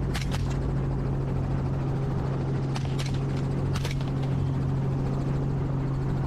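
Helicopter running steadily, a constant low hum from its rotor and engine, with a few short sharp clicks scattered through it.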